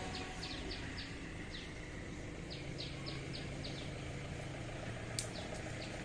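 A small bird chirping in quick runs of short, high, falling notes over a steady low hum of road traffic. There is a single sharp click about five seconds in.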